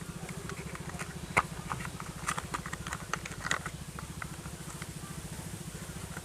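Scattered light clicks and taps of plastic toy parts being handled, bunched in the first half and loudest about a second and a half in, over a steady low hum.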